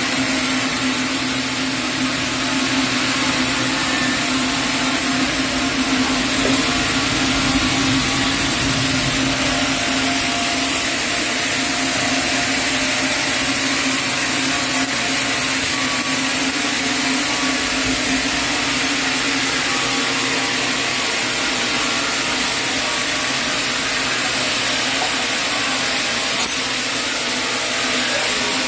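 Sawmill saw running steadily through a chinaberry (sendan) log: a constant hiss of the cut over a steady machine hum, with no break.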